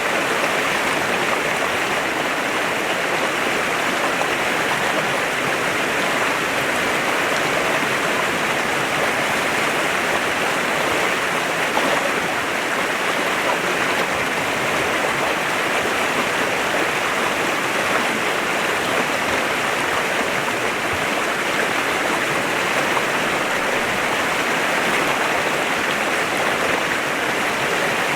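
A clear mountain stream flowing steadily, its water rushing and splashing in an even, unbroken wash.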